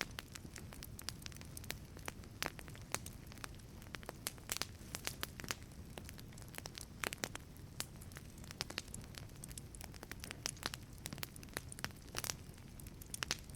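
Wood fire burning in a wood-fired pizza oven: irregular sharp crackles and pops over a steady low rumble of the flames.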